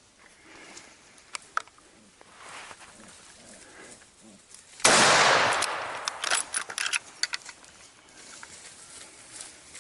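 A sudden loud burst of rapid gunfire about five seconds in, fading over a couple of seconds, followed by a quick string of sharp cracks.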